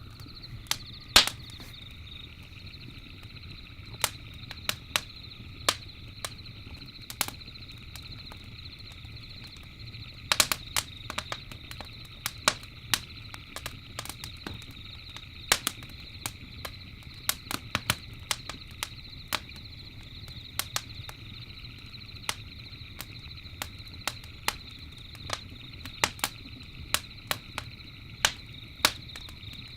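Wood campfire crackling, with irregular sharp pops and snaps; the loudest come about a second in and around the middle. Beneath them runs a steady high-pitched drone.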